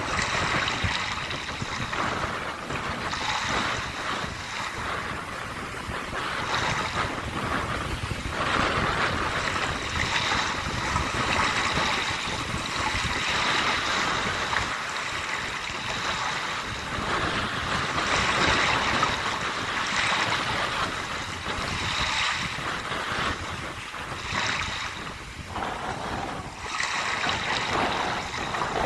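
Sea waves washing onto the shore with wind blowing, the wash rising and falling every few seconds.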